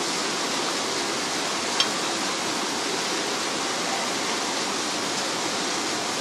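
Heavy rain pouring down, a dense steady hiss of falling water, with one short tap about two seconds in.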